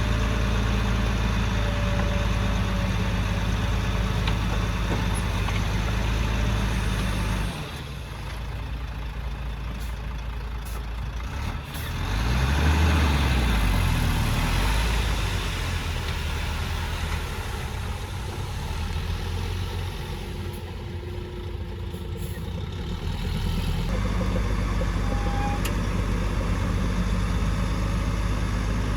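Heavy earthmoving machine's diesel engine running with a steady low drone. About seven seconds in the sound drops away abruptly; around twelve seconds in an engine revs up and back down, and the steady drone returns near the end.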